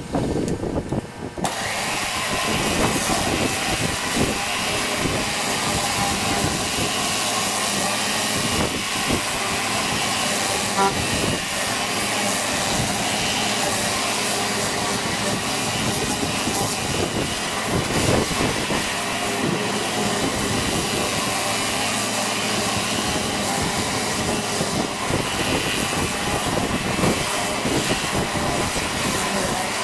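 Pressure washer spraying: a steady hiss of a high-pressure water jet that starts about a second and a half in and holds on without a break.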